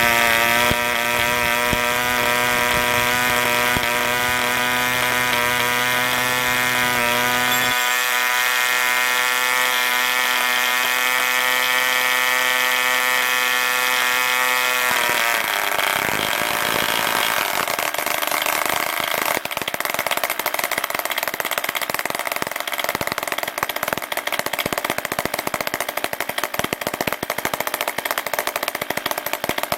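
1950 German RGU 2.5 cc two-stroke model diesel engine running at speed with a steady, high buzzing pitch. About halfway through, the even tone breaks up into a rougher, noisier, fluttering run.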